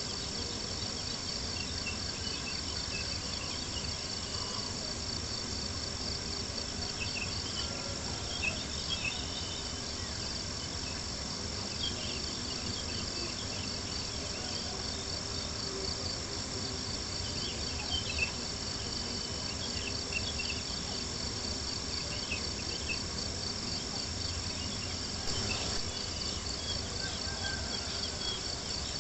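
Steady chorus of crickets chirping, with a campfire crackling and popping now and then.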